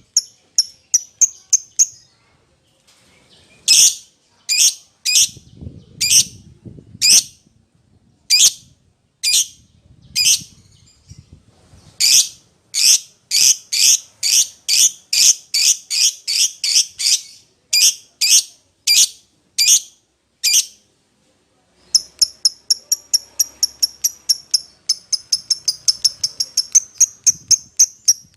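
Lovebird calling in bouts of short, sharp, high-pitched chirps, spaced at first, then faster, ending in a quick rapid run of chirps after a short pause. This is a lovebird's call to a companion or rival, the kind used as a lure call to set other lovebirds calling.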